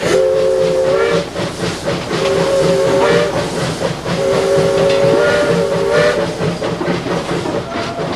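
Narrow-gauge steam locomotive's chime whistle blowing a three-note chord three times: two short blasts, then a longer one. Under it the locomotive's steam hisses and its exhaust chuffs steadily.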